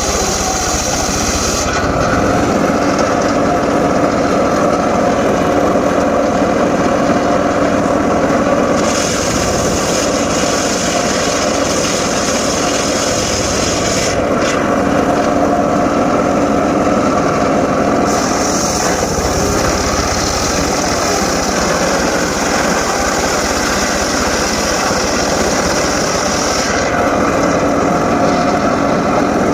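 Homemade engine-driven circular sawmill running steadily while cutting mahogany. A higher hiss from the blade comes and goes in stretches of several seconds over the steady drone.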